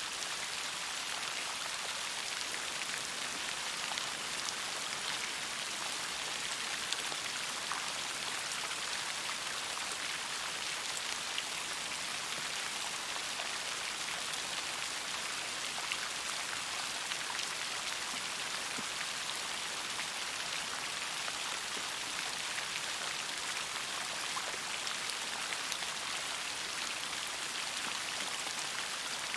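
Steady rain falling, an even patter with scattered individual drops.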